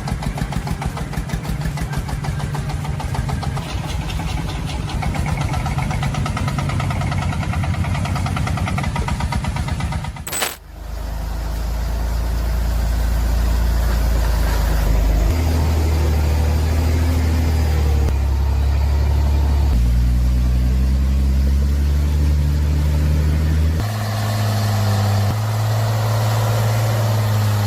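Logging truck engine running hard under load with a dense, even firing beat. About ten seconds in, the sound cuts abruptly to another truck engine, whose low drone holds a pitch and then shifts up and down in steps as the revs change.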